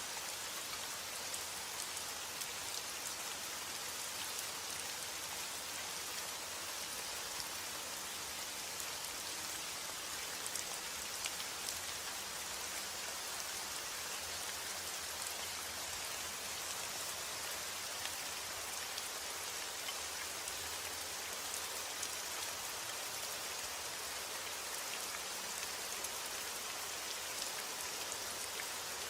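Steady rainfall: a dense, even hiss of raindrops with fine individual drop ticks.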